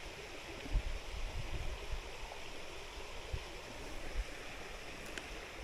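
Steady rushing of a flowing river, with a few soft low thumps.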